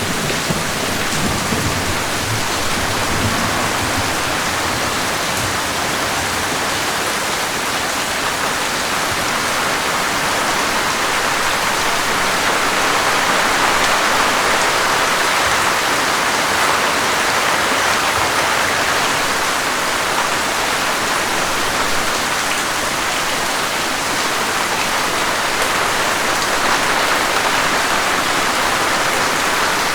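Steady heavy rainfall hissing evenly, with a low rumble in the first few seconds.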